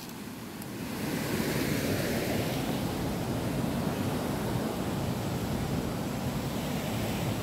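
Steady rushing of muddy water flowing fast along a concrete channel, swelling over the first second or so and then holding even.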